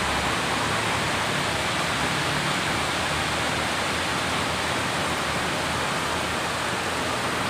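Heavy rain pouring steadily on corrugated metal roofs, a dense even hiss.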